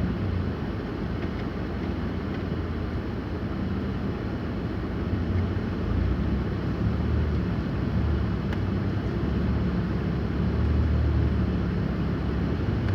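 A car driving on a snow-covered road, with a steady low rumble of engine and tyres.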